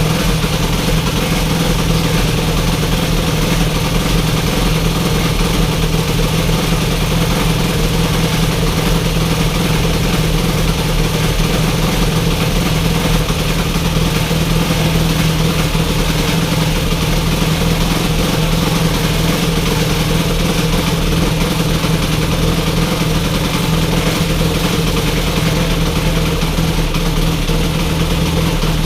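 Honda Monkey 12V single-cylinder engine, bored up and freshly overhauled, idling steadily at an even speed.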